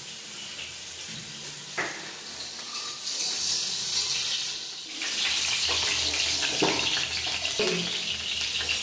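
Cubed eggplant frying in hot oil in a steel wok: a steady sizzle that grows louder about five seconds in, with a few brief knocks.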